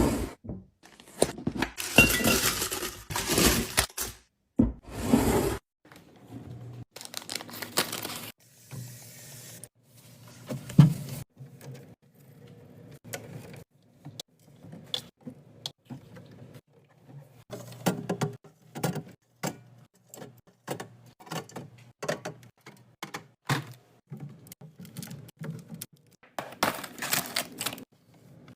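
Clinks, taps and knocks of containers, jars and bottles being handled and set down while a fridge is restocked. Longer noisy stretches come near the start and again near the end.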